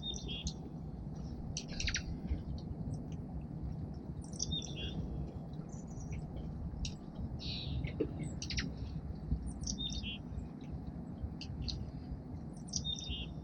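Small songbirds at a bird feeder chirping and calling, with short, high notes coming every second or two over a steady low background rumble.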